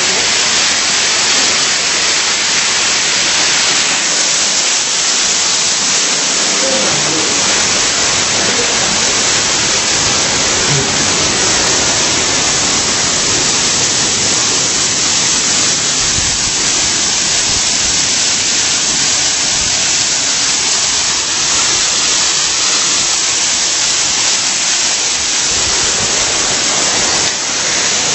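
Loud, steady rush of an artificial waterfall pouring.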